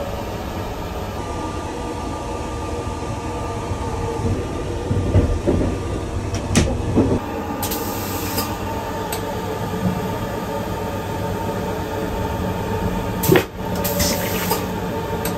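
Steady running rumble of the Sunrise Express sleeper train, a 285 series electric train, heard inside its toilet compartment. A few clicks and knocks come partway through, and there is a sharp click near the end.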